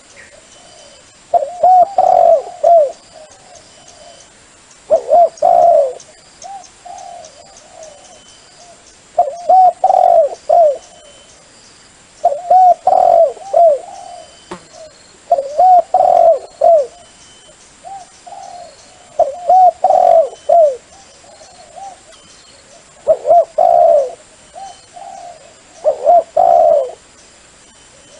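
A dove's cooing call played as a lure for trapping wild doves. Loud phrases of several quick coos repeat about every three and a half seconds, with softer coos between them.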